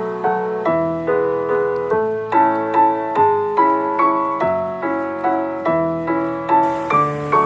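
Background music: gentle piano playing steady broken chords.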